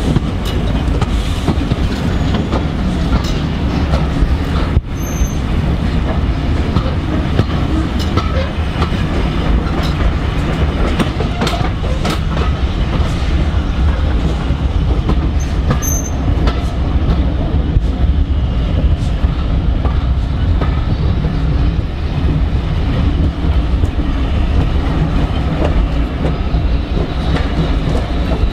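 Railway carriage running along the track, heard from a carriage window: a steady low rumble with the clickety-clack of wheels over rail joints and scattered sharp clicks.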